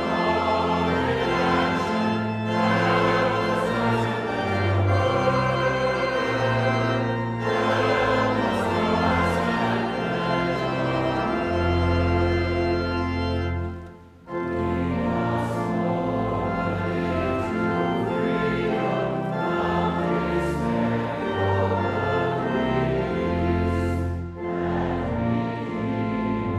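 Congregation singing a hymn with organ accompaniment, with a short pause between phrases about halfway through.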